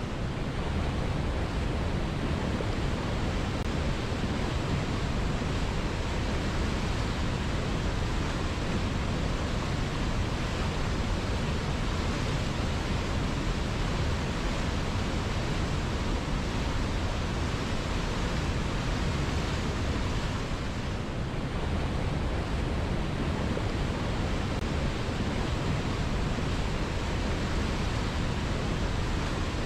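A river flowing steadily: an even rushing of water with a slight dip in level about two thirds of the way through.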